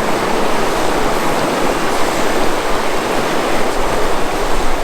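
Steady, loud rush of river water flowing past.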